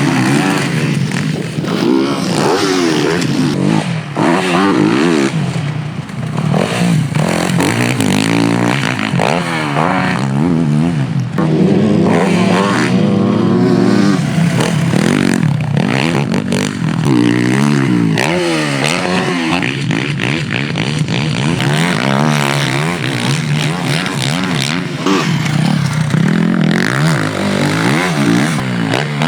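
Yamaha YZ450F motocross bike's single-cylinder four-stroke engine revving hard, its pitch climbing and dropping again and again as the rider goes through the gears and rolls off for corners.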